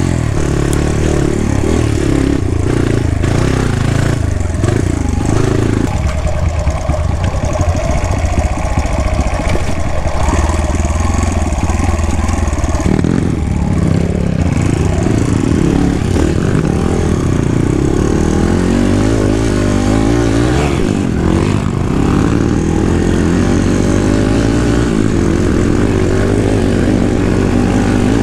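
Kawasaki KLX dirt bike engine running, its pitch rising and falling unevenly as the throttle is worked on and off.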